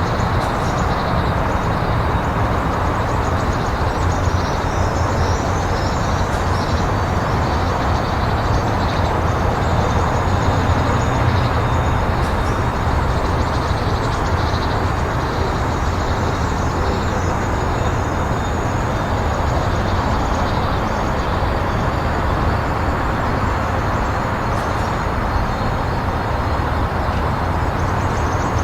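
Freight train rolling past steadily, with a continuous low rumble of wheels on rail and faint high squeals.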